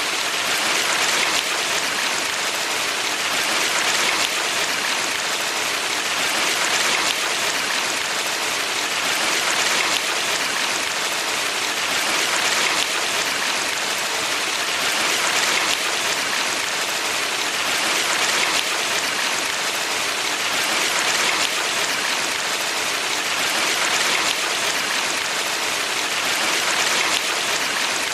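Valley stream water rushing steadily: an even, bright hiss with soft swells about every three seconds.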